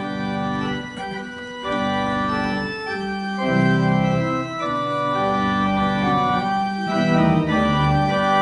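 Organ playing slow, held chords that change every second or so, ending a prelude just before the welcome.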